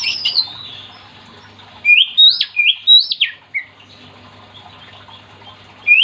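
Oriental magpie-robin (kacer) singing: loud whistled notes sliding up and down, in a short burst at the start and a longer phrase about two seconds in.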